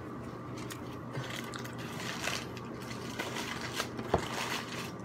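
Close-up eating sounds from chewing and biting into a torta de asada, with small clicks and a sharper click about four seconds in.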